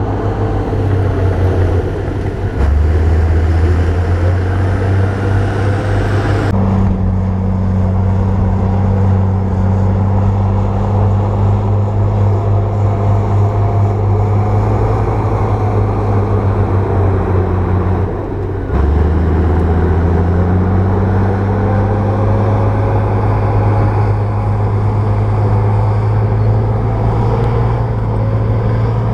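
Bulldozer's diesel engine running with a steady low drone. The sound shifts abruptly twice, about a quarter of the way in and again about two-thirds of the way in.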